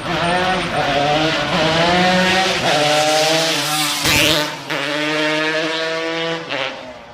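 Yamaha RD 135 two-stroke motorcycle engine revved hard at high rpm, its pitch climbing and dropping several times. There is a brief break about four seconds in, and the engine drops away near the end.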